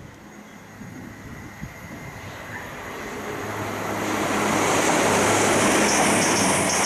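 A mainline train approaching on the East Coast Main Line, growing steadily louder over about four seconds and then passing loud and steady. A low hum runs under it, and a rhythmic high-pitched clatter from the wheels on the rails starts near the end.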